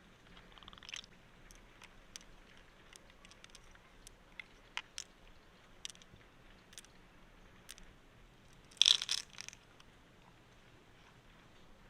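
Freshwater mussel shells being handled and opened: scattered small clicks and ticks, with a louder crunching scrape about nine seconds in.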